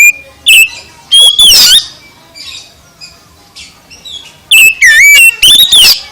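Oriental magpie-robin (kacer) singing loudly: clusters of clear whistled notes with quick rising and falling glides. The loudest phrases come about a second in and again near the end, over fainter chirps.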